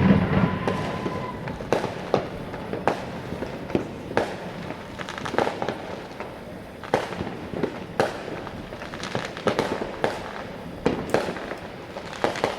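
Fireworks going off around the neighbourhood: a string of sharp bangs and pops at irregular intervals, about one a second, some with a short echo.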